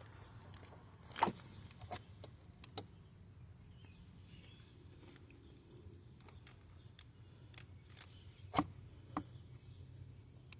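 Scattered light clicks and knocks of hand tools or parts being handled, the loudest about a second in and two more near the end, over a low steady hum.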